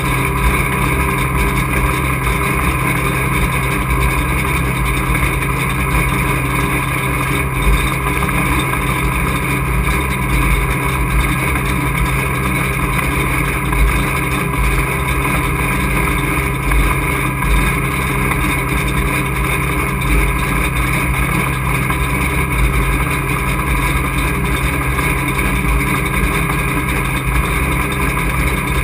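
Race truck's engine heard loudly from inside the cockpit, running at a steady, unchanging speed as a constant drone.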